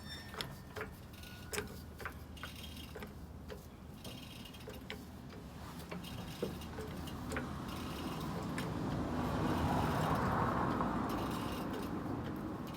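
Scattered light metallic clicks and taps, like tools being handled during brake work, then a rush of noise that swells for a few seconds and fades near the end.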